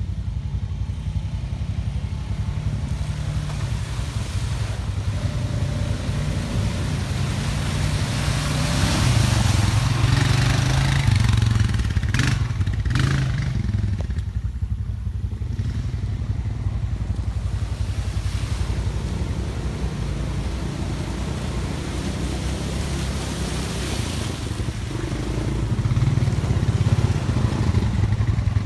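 ATV engine running steadily and growing louder twice, once about a third of the way in and again near the end, with two sharp knocks in between.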